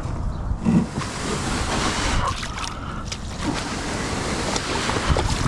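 Wind rushing over the microphone, with water splashing and lapping around a kayak.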